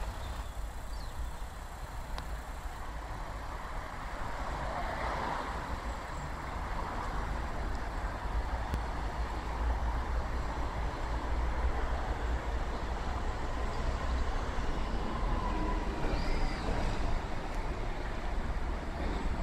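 Mazda CX-7 idling steadily, growing a little louder toward the end as the rear and exhaust come closer.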